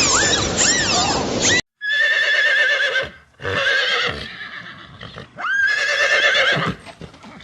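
A horse whinnying: a high, wavering neigh heard about three times. It follows a short stretch of high chirping calls that cuts off about a second and a half in.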